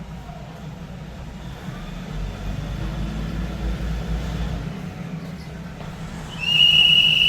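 Steady low engine rumble that swells for a couple of seconds in the middle. Near the end, a loud high electronic tone starts: the opening of the station's PA chime.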